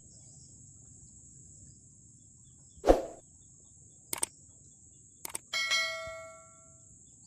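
A sharp knock about three seconds in, then two pairs of quick clicks, then a single bell-like chime that rings out and fades over about a second and a half, over a faint steady high whine.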